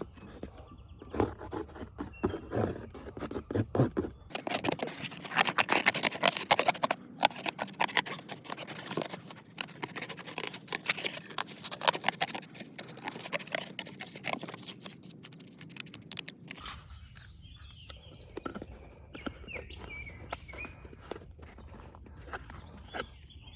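Can of Touch 'n Foam Max Fill expanding foam spraying into a hole in a tree trunk: a sputtering, crackling hiss in spurts, heaviest through the middle. Birds chirp over the last few seconds.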